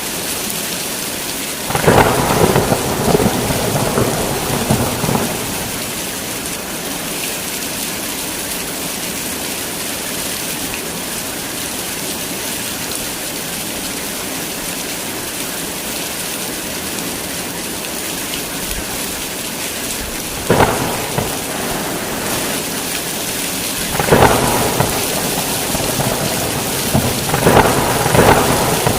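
Heavy rain falling steadily through a thunderstorm. Thunder cracks about two seconds in and rolls on for a few seconds, then cracks and rumbles again three more times in the second half.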